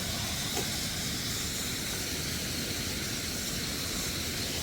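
Waterfall rushing: a steady, unbroken hiss of falling water with a low rumble beneath.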